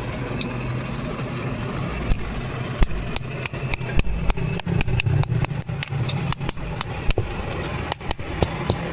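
Hammer blows on iron at the anvil, sharp strikes coming several a second from about two seconds in, over a steady low hum.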